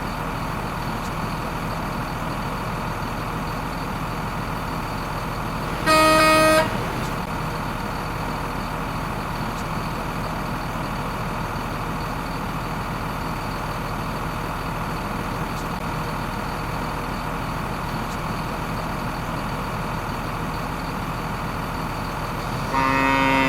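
A steady vehicle engine hum, with one short horn toot about six seconds in and a cow mooing near the end.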